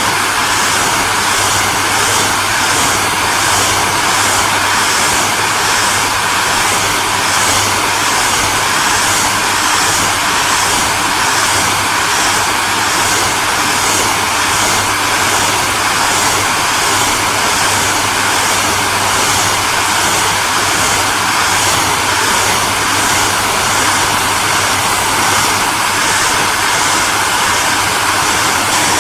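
Hair dryer running steadily: a constant fan-and-motor rush with a low hum and a few steady whining tones underneath, and no change in speed.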